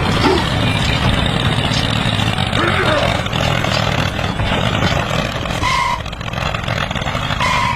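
A vehicle engine running steadily, with two short beeps near the end.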